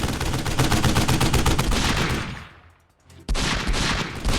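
Rapid, continuous gunfire-like shots. They fade out about two and a half seconds in, leave a brief near-silent gap, then start again abruptly.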